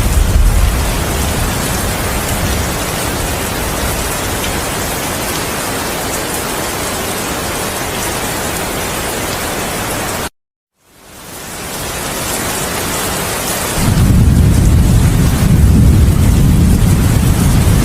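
Steady heavy rain with thunder: a low rumble at the start that dies away, then a deep, loud thunder rumble that comes in about three-quarters of the way through and keeps going. About ten seconds in, the sound cuts out completely for half a second and fades back in, a splice in the looped recording.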